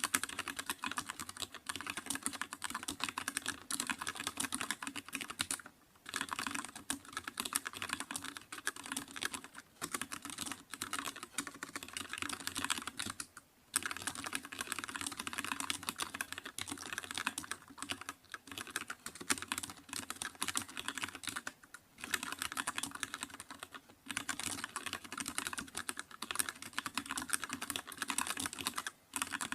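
Rapid, continuous typing on a computer keyboard, dense clicking keystrokes broken by brief pauses every several seconds.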